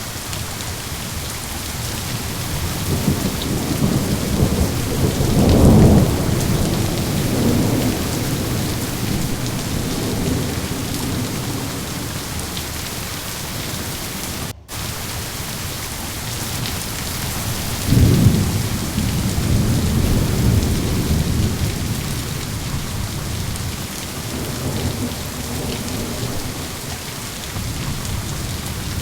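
Steady rain with rolling thunder. A low rumble builds to a peak about six seconds in, another breaks about eighteen seconds in and rolls off over several seconds, and a third starts swelling near the end. The sound drops out for a split second midway.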